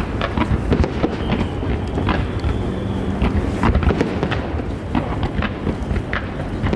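Fireworks display: a rapid, irregular string of shell bursts and crackles over a continuous low, thunder-like rumble.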